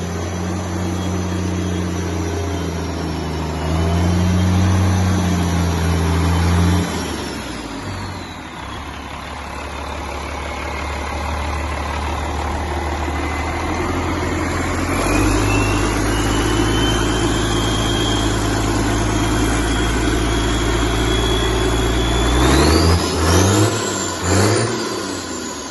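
1990 International DT466 inline-six diesel engine running, its speed stepped up a few seconds in, dropped back about seven seconds in, and raised again about halfway through. Near the end it is revved in a few quick blips, with a high whine that climbs and falls with the revs.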